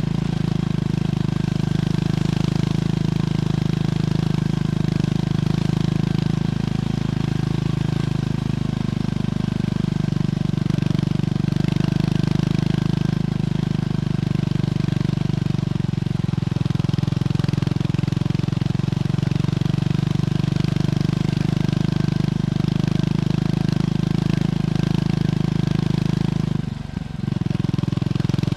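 Triumph Scrambler 400X single-cylinder engine running steadily through its stock exhaust, at an even pitch, with a short drop in sound near the end.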